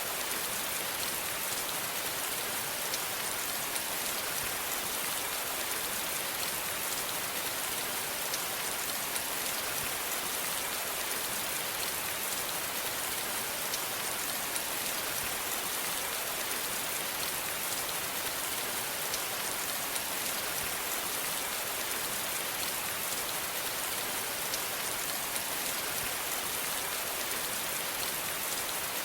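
Steady rain falling on a surface: an even hiss with faint scattered drop ticks, unchanging throughout.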